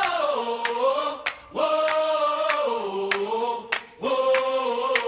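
Music: wordless choir-like singing in long held notes, in phrases that step down in pitch, with a few sharp percussive clicks between the phrases.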